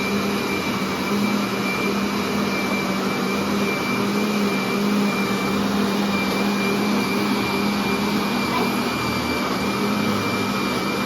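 Electric kitchen blender running steadily at one speed, its motor making a constant hum as it blends the pudding mixture.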